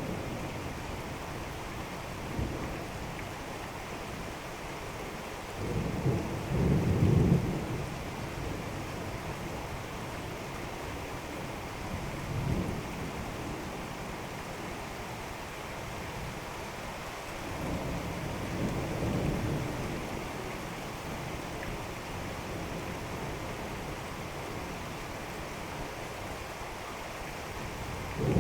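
Steady rain falling through a thunderstorm, with rolls of thunder rumbling in the distance: a loud roll about six seconds in, a short one near the middle, and a longer rumble about two-thirds of the way through.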